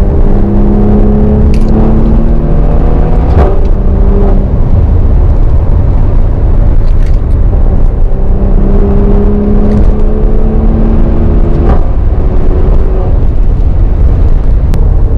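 Maserati Levante GranSport SQ4's twin-turbo V6 pulling under acceleration, its note rising slowly and then dropping at a sharp upshift crack, twice: about three and a half seconds in and again near the end. A heavy low rumble lies under it.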